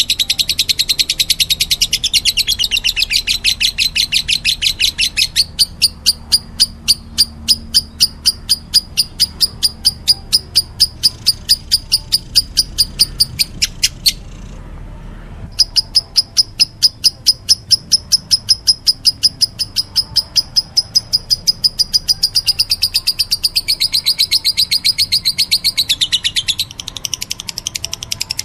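Lovebird making rapid begging chirps at feeding: a fast, even train of short, high chirps, about four or five a second, that breaks off for about a second and a half roughly halfway through and then resumes.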